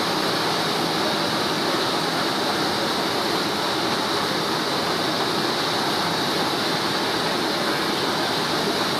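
B-2 Spirit's General Electric F118 turbofan engines running, a steady, even rushing jet noise with no change in level.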